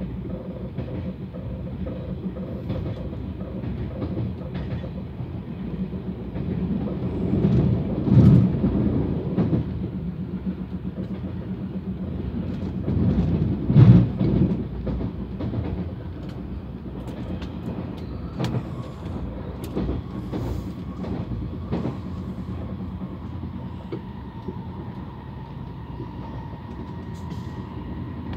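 TGV InOui high-speed train running on the line, heard from inside a passenger car: a steady rumble of wheels on rail with scattered clicks over rail joints and points, swelling louder twice. A faint steady whine comes in during the second half.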